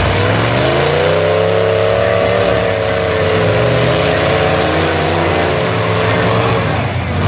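Full-size truck engines revving hard: the pitch climbs in the first second or so, holds at high revs, then drops near the end.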